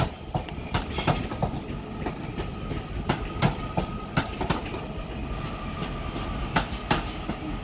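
Northern Class 331 and Class 323 electric multiple units rolling into the platforms: irregular clicks of wheels over rail joints and points, over a steady rumble with a faint, steady high tone.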